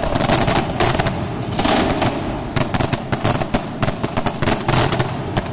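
Fireworks going off in rapid volleys of sharp crackling pops, one cluster after another, thinning out near the end.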